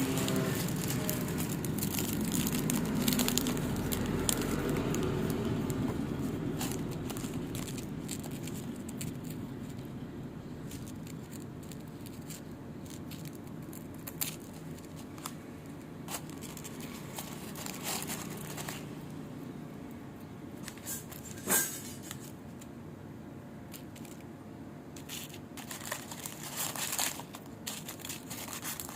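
Strawberry wafers being broken and crunched: scattered crisp cracks and crackles, with one sharper, louder snap past the middle.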